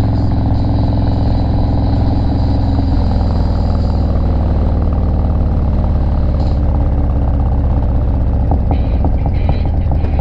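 Harley-Davidson Low Rider S's V-twin engine, fitted with an S&S 475 cam, running steadily while the bike is ridden, heard along with road noise. Its firing pulses stand out more clearly near the end.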